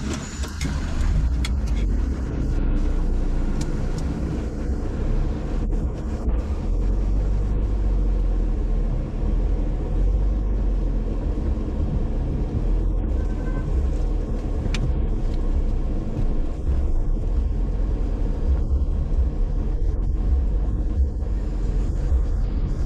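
Car driving along streets, heard as a steady low road and engine rumble with tyre noise. The engine pitch rises briefly in the first few seconds as the car speeds up.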